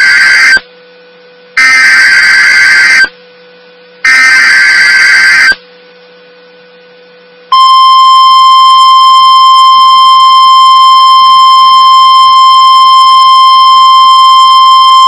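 Emergency Alert System (SAME) header: loud screeching digital data bursts, the tail of one and then two more of about a second and a half each with short gaps between. Halfway through comes one steady, unbroken attention tone.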